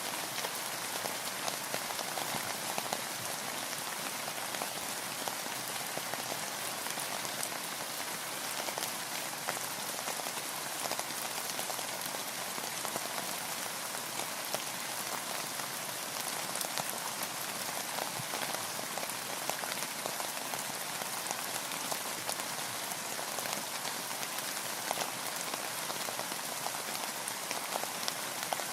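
Steady rain with many small drop ticks: rainfall pattering on a boat.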